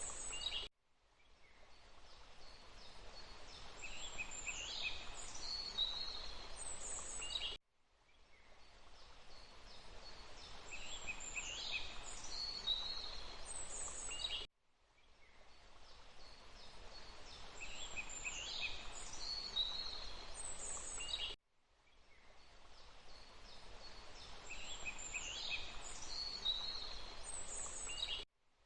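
Wild birds chirping and calling over a steady background hiss: a short recorded loop of the same calls. It cuts out abruptly about every seven seconds and fades back in.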